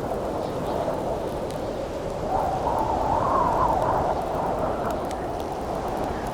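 Howling wind, a steady rush that swells into a stronger, higher gust in the middle and eases off again, with sparse faint crackles from a campfire.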